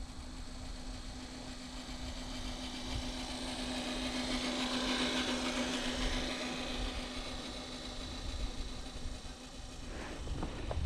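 Electric motor and gear drive of an RC truck whining steadily as it drives, growing louder towards the middle and fading again. A few footsteps come in near the end.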